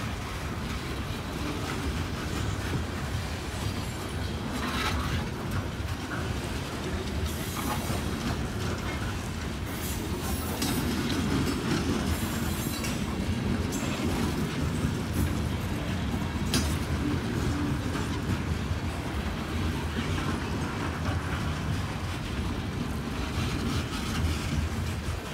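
Loaded coal hopper cars of a long freight train rolling past: a continuous low rumble with wheels clacking over the rail and occasional higher screeches.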